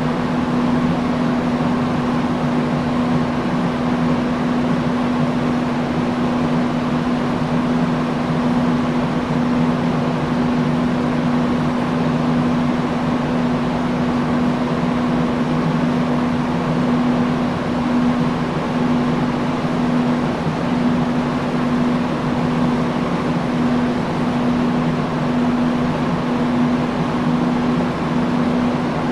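Industrial fan running steadily: a constant rush of air with a low, even motor hum.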